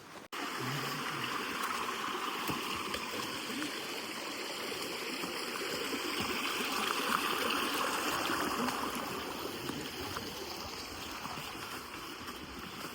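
A steady rush of running water, cutting in abruptly a moment after the start.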